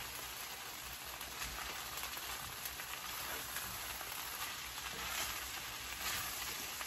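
Chopped chicken for sisig sizzling steadily in a frying pan as it is stirred with a wooden spatula, with a few faint ticks from the stirring.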